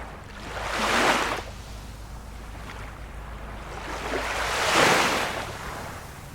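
Small waves of a calm sea breaking and washing on the shore, two swells rising and falling, one about a second in and one about five seconds in.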